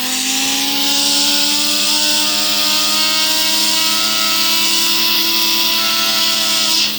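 Compressed air from an air-compressor blow gun hissing loudly as it blasts a fidget spinner, with the spinner's whine slowly rising in pitch as it spins up. The air cuts off abruptly at the end.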